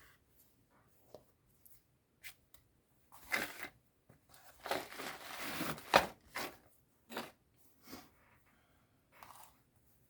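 Paper and fabric being handled at a craft table: crinkling and rustling in short bursts, the longest lasting about a second and a half, with a sharp tap near the middle and lighter ticks after.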